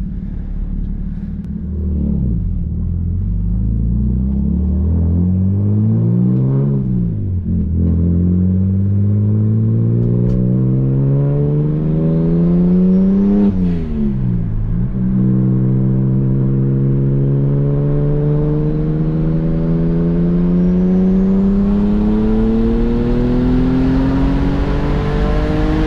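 Single-turbo BMW N54 inline-six in a 135i, accelerating hard through the gears. The engine note climbs steadily, drops sharply at gear changes about 2, 7 and 14 seconds in, then climbs through a long pull in the next gear.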